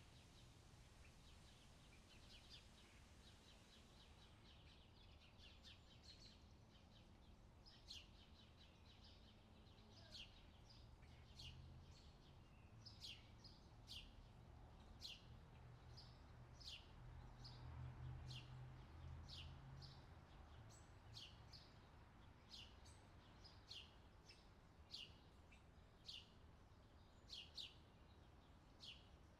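Faint outdoor summer ambience: small birds twittering in quick runs at first, then giving short falling chirps about once a second, over a low steady rumble.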